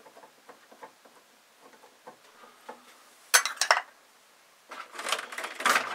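Metal pieces clinking and rattling as they are handled in a workshop: a few faint ticks, then a short burst of clatter just past the middle and a longer one near the end.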